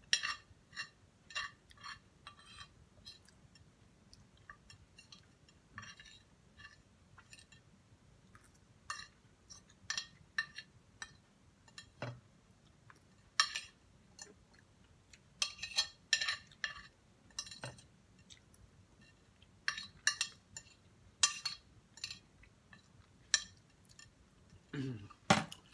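Eating sounds: a utensil clinking and scraping against a plate in short, irregular taps, with chewing and a couple of duller knocks of dishware.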